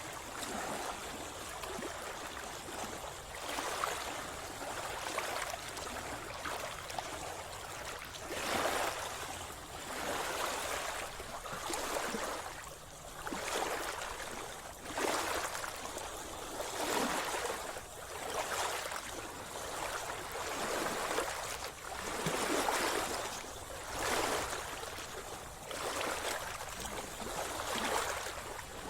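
Sea water splashing and churning in repeated surges about every two seconds, the rhythm of a swimmer's strokes through the water.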